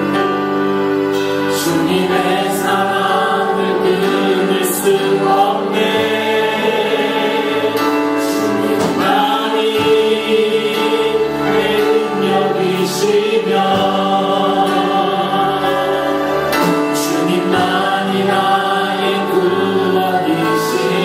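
Choir singing a Christian worship song with musical accompaniment.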